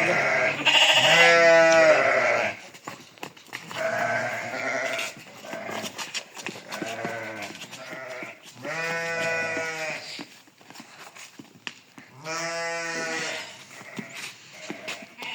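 Sheep bleating: three long, quavering bleats, about a second in, near the middle and later on, with fainter bleats between.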